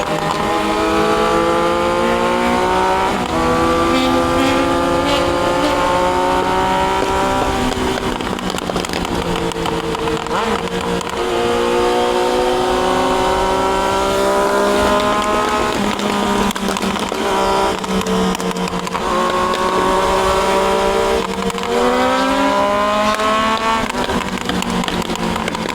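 Triumph Daytona 660's inline three-cylinder engine accelerating on the road: its pitch climbs steadily for several seconds at a time, then drops back at each upshift, several times over.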